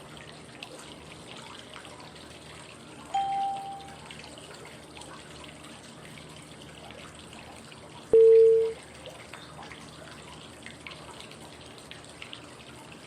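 Steady flowing-water white noise with short pitched cue tones about five seconds apart: a higher one about three seconds in and a louder, lower one about eight seconds in. These are prompt tones marking the phases of 5-5-5 breathing: inhale, hold, exhale.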